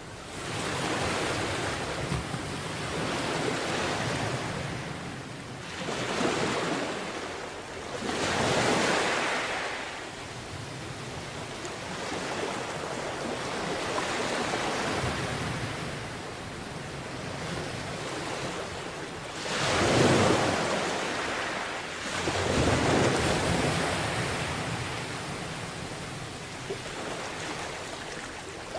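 Sea waves breaking and washing up a beach, surging every few seconds over a steady wash, with the biggest surge about two-thirds of the way through.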